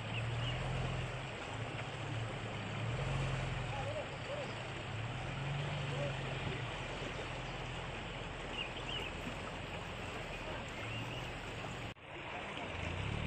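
Land Rover Series engine running at low revs as the truck crosses a wooden log bridge, over the steady rush of a shallow rocky stream. The sound breaks off briefly about twelve seconds in, then the stream goes on.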